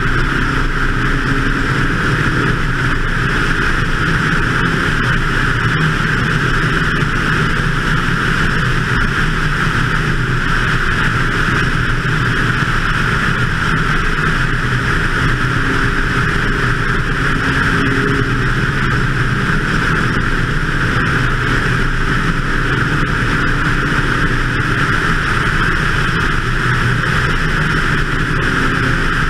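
BMW 2002 race car's engine running hard at track speed, heard from an onboard camera. The engine note shifts only a little, and a constant rush of wind and road noise runs under it.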